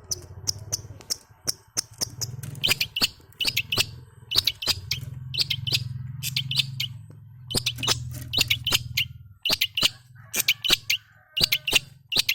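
Long-tailed shrike (cendet) giving repeated bursts of short, high chirping notes, a young bird still learning its song. A steady low hum runs underneath and stops about three quarters of the way through.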